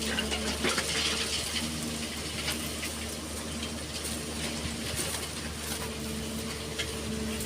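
Excavator's diesel engine running steadily, with a whine that rises and fades and scattered small clicks and clatters of sand and stones being moved.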